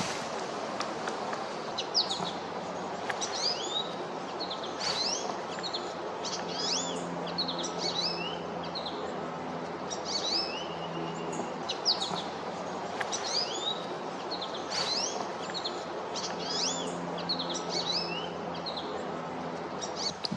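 Small birds chirping, a quick run of short, high, sweeping notes repeated again and again over steady outdoor background noise, with an occasional sharp tap.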